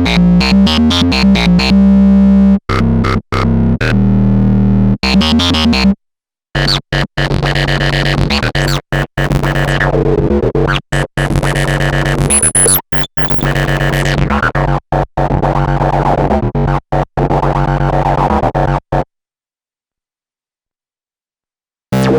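Korg monologue monophonic analog synthesizer, recorded direct, playing two factory preset sequences: a pattern over a steady bass that stops about six seconds in, then after a short break a choppy run of short, clipped notes. It cuts to silence about three seconds before the end.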